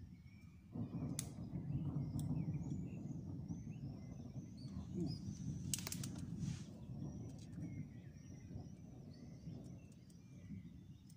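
Distant thunder rolling in a low, near-continuous rumble that swells about a second in, as a violent thunderstorm approaches. Birds chirp over it, and a few sharp clicks stand out.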